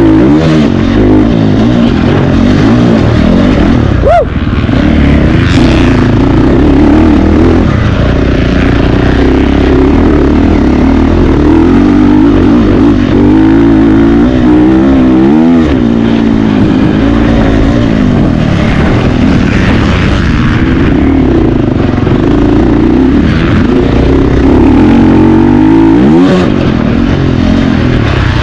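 Several 450-class motocross bikes racing: their engines rev up and down continuously as riders accelerate and shift, with bikes sweeping past several times.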